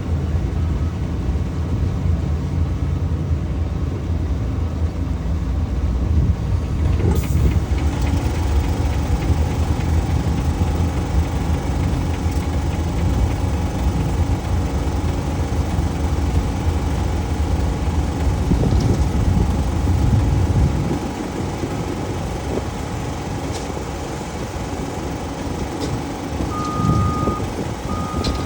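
Steady low mechanical rumble, like a diesel engine or pump running, that drops in level about three-quarters of the way through. Near the end a vehicle's reversing alarm beeps.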